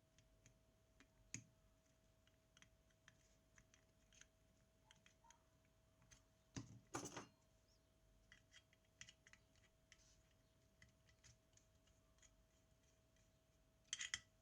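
Faint clicks and taps of small tools and parts being handled on a work surface, with louder clatters about seven seconds in and near the end, over a faint steady hum.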